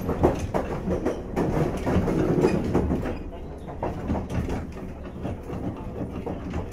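Onboard running noise inside a JR East 485 series 3000-subseries electric motor car: the wheels clatter over the rail joints above a steady low rumble. It is louder for about the first three seconds, then quieter.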